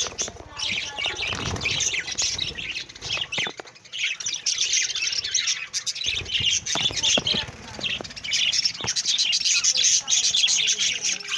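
Budgerigars chattering and warbling in a dense, continuous stream of short chirps, with a few sharp clicks scattered through.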